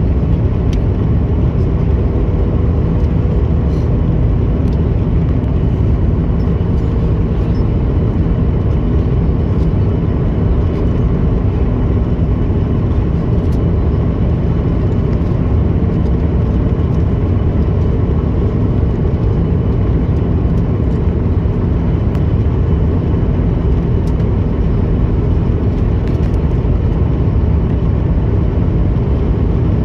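Steady jet engine and airflow noise inside an airliner cabin during the descent to land, with a faint steady whine above it.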